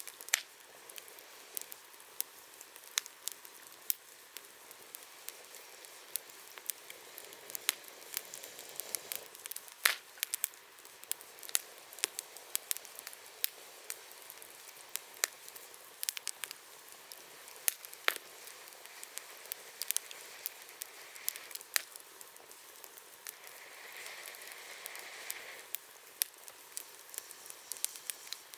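Wood campfire crackling: irregular sharp pops and snaps throughout, with a soft hiss twice in the second half.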